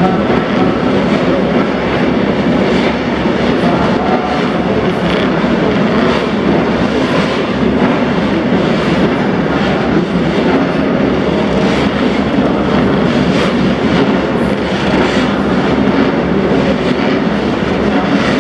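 Vintage racing motorcycles, built before 1972, running on the circuit: a loud, steady blend of engine noise with no single bike standing out.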